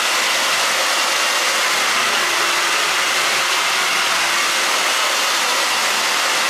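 A vacuum cleaner running steadily with an even rushing noise.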